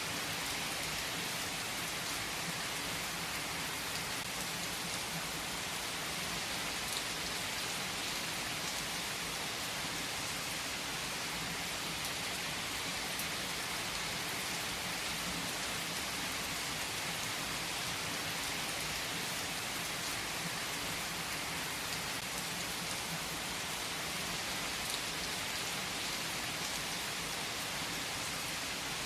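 Steady rain falling, an even hiss of drops on surfaces with faint separate drop ticks.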